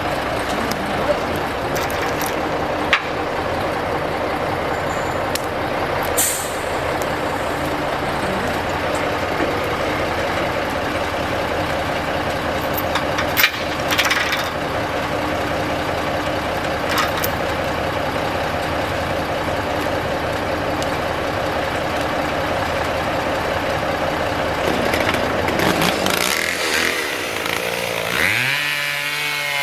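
Heavy diesel engine of a 1974 Kenworth self-loading log truck running steadily, with a few short air hisses. Near the end a chainsaw comes in, revving up and down.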